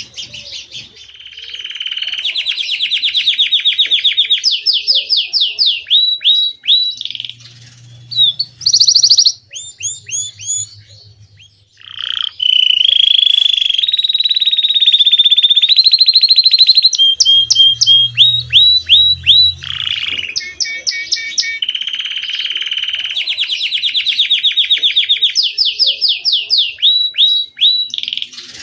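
Domestic canary singing a long song made of fast rolling trills and runs of quick rising notes, broken by short pauses about seven and twelve seconds in and again about twenty seconds in.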